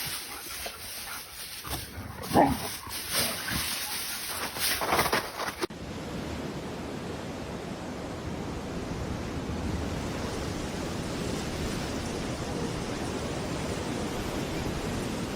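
A few short animal calls, one of them loud, of the kind a dog makes. After an abrupt cut, a steady even hiss.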